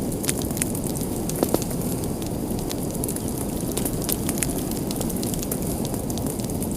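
Wood fire in a fireplace crackling and popping over a steady low rush of flames, with a pair of louder pops about a second and a half in.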